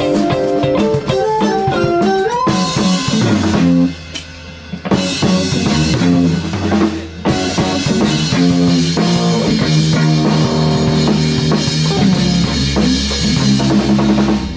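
Live rock band playing an instrumental passage on electric guitar, bass and drum kit. A guitar melody leads at first, then the drums and cymbals come in full. The band drops out briefly about four seconds in, leaving a held bass note, before kicking back in.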